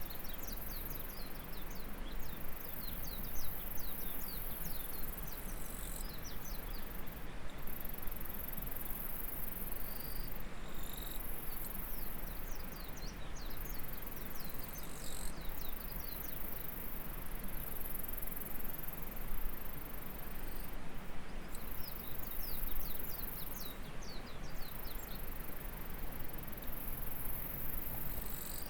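Insects trilling in a high, steady buzz with brief breaks, while a bird sings short phrases of quick repeated chirps every few seconds, over the even rush of a flowing stream.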